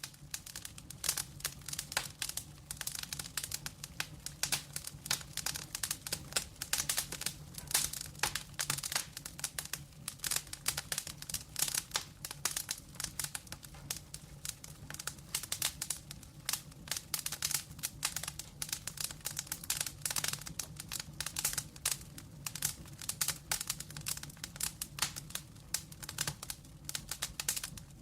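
Wood fire burning in a fireplace, logs crackling in a dense, continuous patter of sharp pops over a steady low hum.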